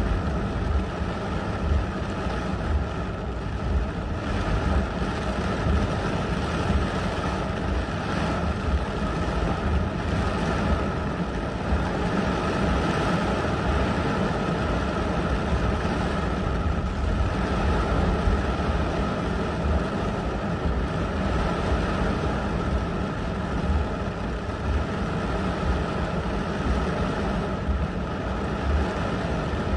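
Heavy thunderstorm rain and strong wind hitting a car, heard from inside it: a steady rushing noise with a deep rumble underneath.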